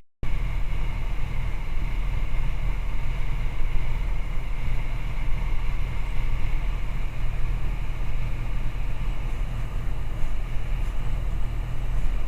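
Steady cabin drone of a TB20 light aircraft's six-cylinder piston engine and propeller in level flight, cutting out for an instant at the start.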